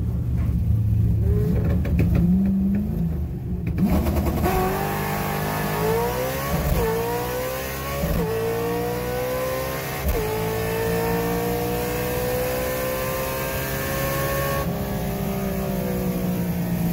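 Drag car's engine heard from inside the car: running low at the start line, then at wide-open throttle from about four seconds in, its pitch climbing and dropping back with three quick upshifts, then falling away near the end as the driver lifts off after the pass.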